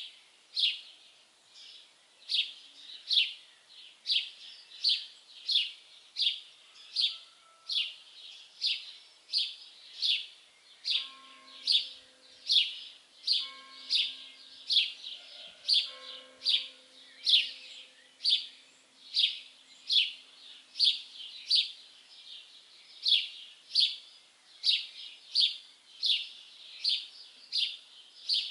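A single bird chirping over and over at an even pace, just under two short, downward-sliding chirps a second.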